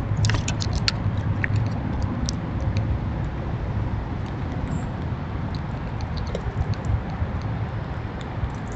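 Outdoor backyard ambience: a steady low rumble with short, high clicks or chirps, thick in the first couple of seconds and scattered after.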